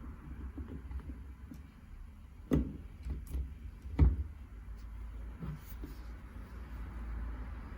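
A few sharp knocks and clicks of hard objects being handled, the two loudest about two and a half and four seconds in, over a low steady hum.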